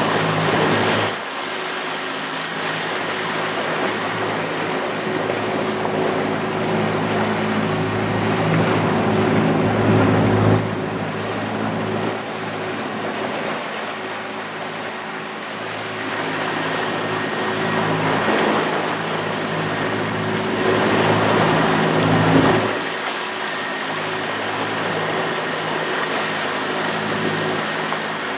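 A motorboat's engine running steadily under the hiss of rushing water. The hiss swells three times and drops off suddenly each time.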